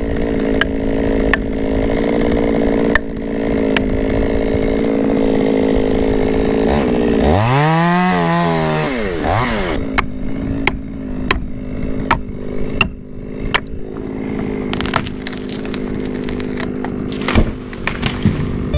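Chainsaw running at full speed, cutting into the trunk of a dead pine. For about two seconds in the middle its pitch swoops down and back up, then it runs on more steadily with a string of sharp clicks.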